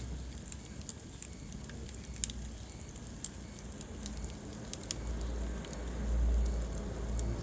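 Wood fire burning in a fireplace: scattered sharp crackles and pops over a low rumble of the flames, the rumble swelling for a couple of seconds near the end.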